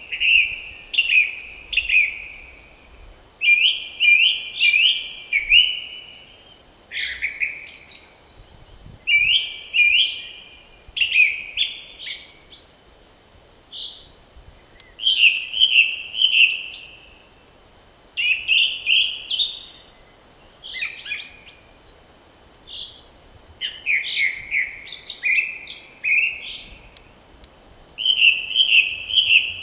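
Songbirds singing in spring, one bird close by repeating short trilled phrases of about a second each, with only brief pauses between them.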